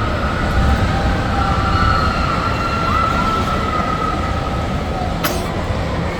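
Steady background din of an indoor amusement park, with a held tone that slowly falls in pitch and a single sharp click about five seconds in.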